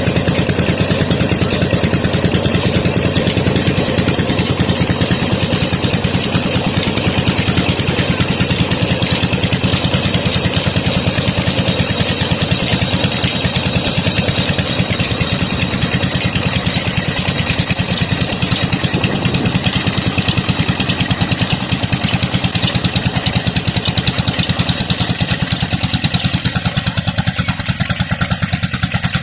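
16 hp Petter diesel engine running steadily under the load of a tube-well water pump, with a fast, even firing beat. A thin high whine sounds over it through the first half.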